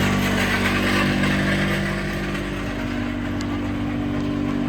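Kubota pony motor running steadily, driving the bucket truck's hydraulics.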